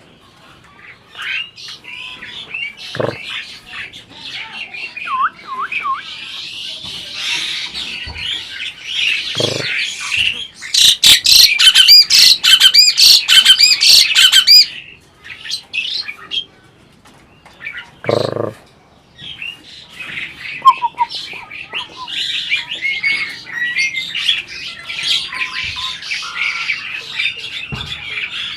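Asian pied starling (jalak suren) calling and chattering in a varied run of squawks and whistles, with a loud stretch of rapid repeated notes about halfway through. A few dull knocks are heard among the calls.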